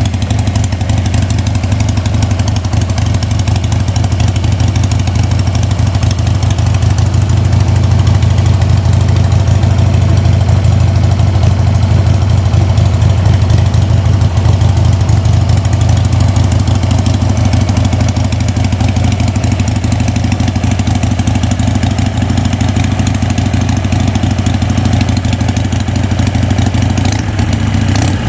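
Harley-Davidson XLH883 Sportster's air-cooled 883 cc V-twin idling steadily with a fast even beat, a little louder for several seconds in the middle.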